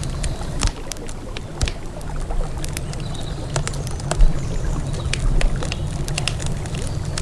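Wood campfire crackling, with many irregular sharp pops and snaps, over a steady low rumble of river ambience.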